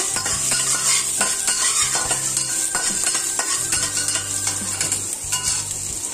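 Minced ginger sizzling in hot oil in a wok, a steady hiss, with a metal spatula scraping and clicking against the pan as it is stirred.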